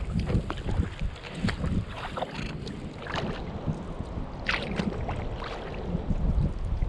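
Kayak paddle strokes, the blades splashing and dripping in the water at irregular intervals, with gusty wind buffeting the microphone, strongest near the end.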